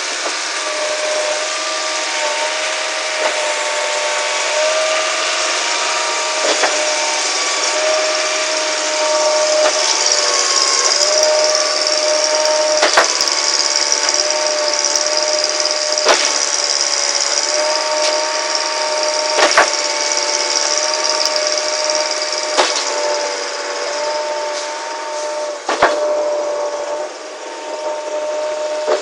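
Truck-mounted concrete pump running: a steady hydraulic whine and hiss, with a sharp knock repeating about every three seconds.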